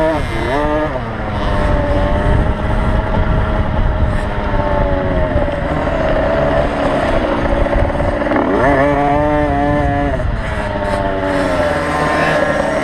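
Small two-stroke motocross bike engines racing at high revs. The pitch rises and falls with the throttle, holds high through the middle, climbs again near the two-thirds mark and then drops off as the riders shut off.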